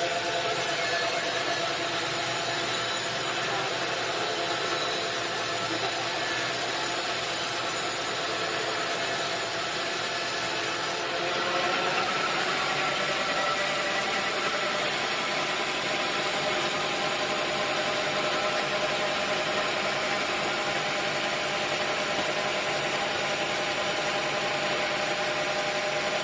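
Sawmill machinery running steadily with a hum of several held tones over a noisy rush; the tones rise slightly in pitch and it gets a little louder about eleven seconds in.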